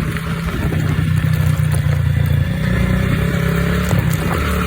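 Mini pit bike's small engine running steadily under way, a constant low drone with slight rises and dips in speed.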